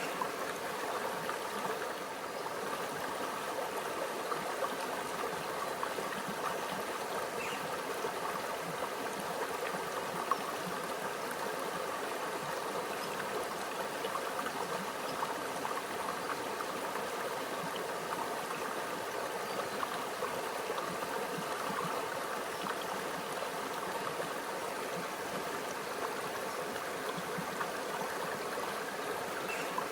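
Small stream running over rocks, a steady babbling and trickling of water.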